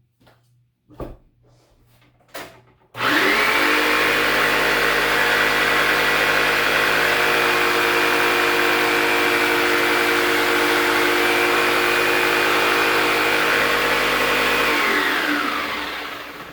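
An electric power tool switches on about three seconds in and runs at a steady high-speed whine while cutting a piece of wood. Near the end it is switched off and winds down. A couple of light knocks come before it starts.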